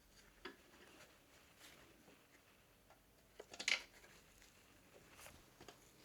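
Faint workshop handling of small metal parts and hand tools: scattered light clicks and taps, with a short run of sharper clicks about three and a half seconds in.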